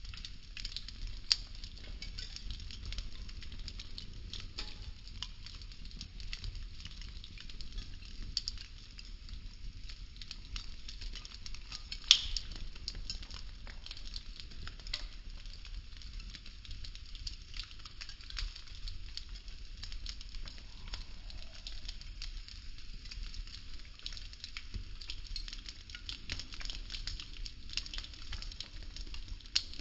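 A burning structure of wooden popsicle sticks crackling steadily with many small ticks and pops over a low rumble. There is one loud sharp pop about twelve seconds in and a smaller one about a second in.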